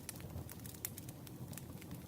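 Campfire crackling: irregular sharp pops and snaps of burning wood over a low, steady rumble of flame.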